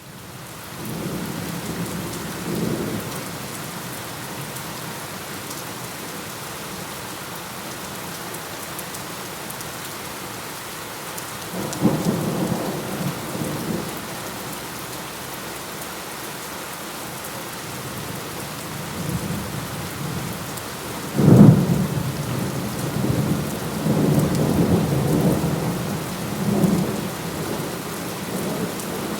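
Thunderstorm: steady rain falling, with rolling thunder. Low rumbles come about two and twelve seconds in, then a sharp thunderclap about 21 seconds in, the loudest sound, followed by several seconds of rumbling.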